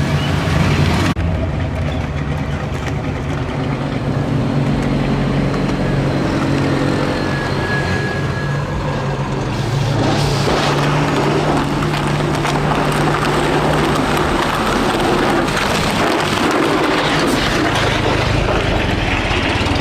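Vehicle engines running at low revs, a steady low engine note, with the sound changing abruptly about a second in and again around ten seconds in.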